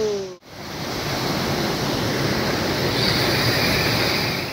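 Waterfall: a steady rush of falling water, with a brief dropout about half a second in.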